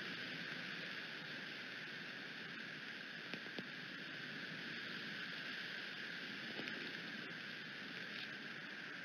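Steady rain falling on the eagle nest, with a few light taps about three and a half seconds in.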